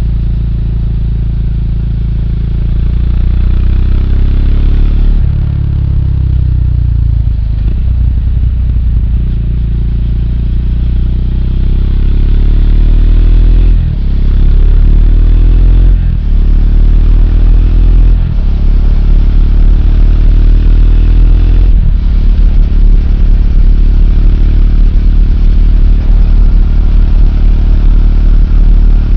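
Triumph Speed 400's single-cylinder engine under way, the pitch dropping off early on, then climbing through a run of upshifts with a short dip at each shift before settling into a steady cruise.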